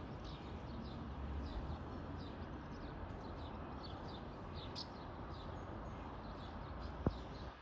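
Small birds chirping repeatedly in short falling notes over a steady low rumble of outdoor noise, with a single sharp click near the end.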